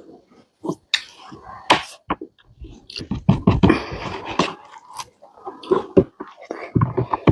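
A person chewing food close to the microphone, with irregular wet smacks and clicks of the mouth.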